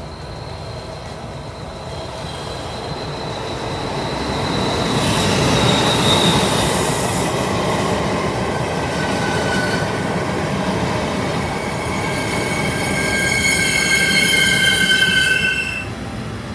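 A train running on rails, its rumble building to a peak about six seconds in. From about nine seconds in, a high-pitched squeal in several steady tones joins it and stops suddenly near the end.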